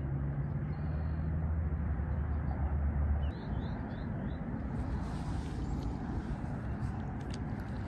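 A low, steady motor hum that cuts off about three seconds in, over a continuous outdoor background noise, with a few faint short bird chirps near the middle.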